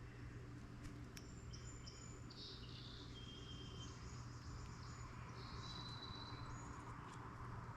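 Faint wild bird calls: a cluster of short, high whistled notes at differing pitches, then a longer single note a little later, over a steady low hum.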